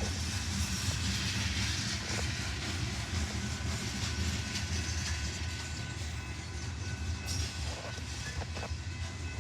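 Freight train, a grain train, rolling by with a steady low rumble.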